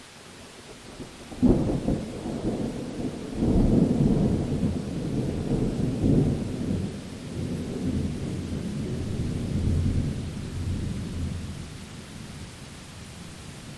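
Thunder in a rainstorm: a sudden crack about a second and a half in, then a long low rumble that swells again and slowly dies away, over a steady hiss of rain.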